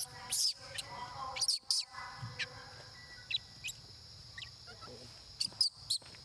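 Baby monkey crying in short, high-pitched squeals: a cluster of cries near the start, scattered single cries through the middle, and another loud cluster near the end. Crying of this kind is a hungry infant calling for milk.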